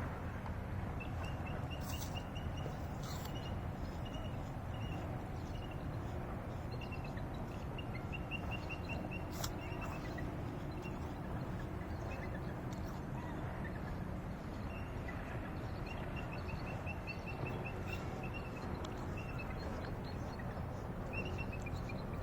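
Songbird chirping in short runs of quick, high notes, several a second, repeated again and again, over a steady low rumble of outdoor background noise.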